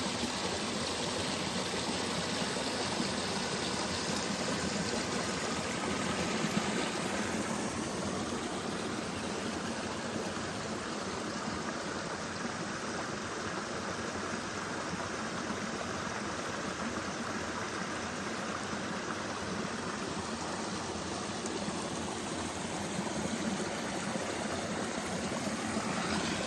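Steady rushing of running water, an even noise that holds throughout without a break.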